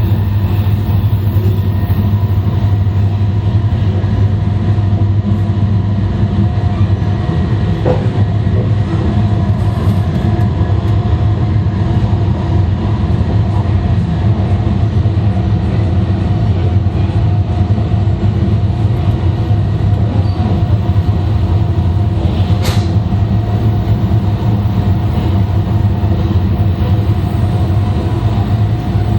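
Running noise of an E2 series Shinkansen heard from the vestibule of a car, with a loud, steady rumble and steady hum tones from its Mitsubishi IGBT-inverter traction equipment, the pitch holding level at a constant speed. A single sharp click sounds about 23 seconds in.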